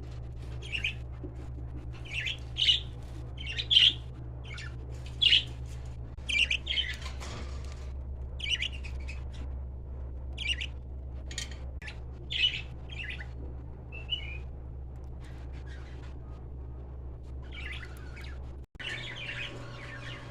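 Small cage birds, lovebirds or bulbuls, chirping and squawking in short, irregular calls over a steady low hum. The calls thin out in the second half, and the sound drops out briefly near the end.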